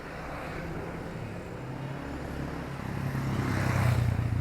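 A motor vehicle, a car or motorcycle, drives past on a town street. Its engine and tyre noise grow louder, peak near the end and begin to fade.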